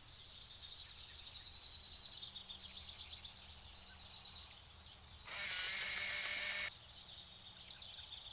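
Outdoor nature ambience: steady high-pitched, rapid chirping, with a louder hissing buzz from about five seconds in that stops abruptly about a second and a half later.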